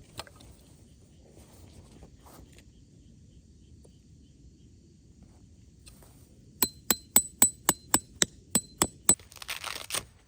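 About ten quick, sharp metal-on-metal strikes with a ringing tone, roughly four a second, then a short rustle near the end.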